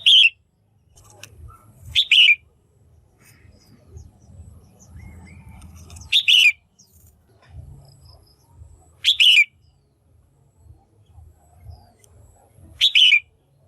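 Female red-whiskered bulbul calling: five short, sharp calls a few seconds apart, each dropping in pitch.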